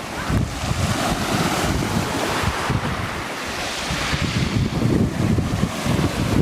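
Black Sea surf washing in on a stony shore, the waves swelling and falling back in turn, with wind rumbling on the microphone.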